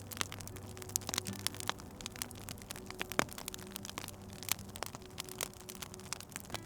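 Wood fire in a fireplace crackling, with many irregular sharp pops and snaps. Soft sustained low notes of background music run underneath.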